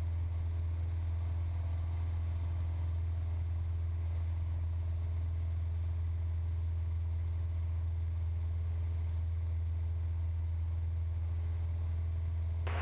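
Cessna 172's four-cylinder piston engine running in flight, a steady low drone with faint higher tones that holds unchanged throughout.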